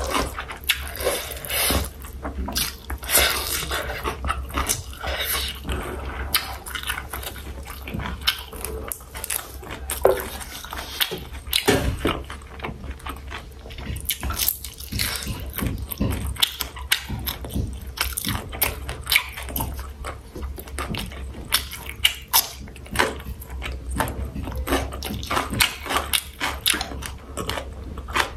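Close-miked eating sounds: chewing and wet mouth smacks on sausage, rice and vegetables, many short irregular clicks and squelches.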